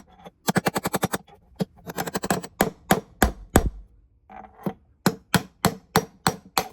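Hammer striking a screwdriver used as a drift to knock the old drum bearing out of a Bosch Exxcel washing machine. Sharp metal-on-metal blows come first in quick bursts, then singly, and near the end in a steady run of about three a second.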